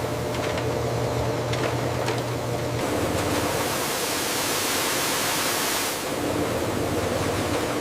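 Steady rushing noise of a processing line, with a low hum that stops about three seconds in and a brighter hiss from about three to six seconds.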